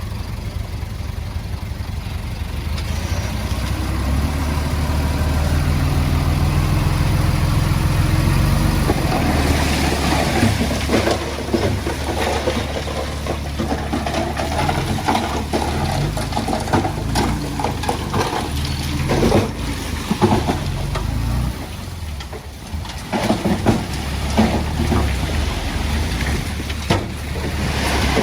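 Heavy-equipment diesel engine working, its low drone growing louder about four seconds in. From about nine seconds on it is joined by repeated clanking and scraping of stone and metal.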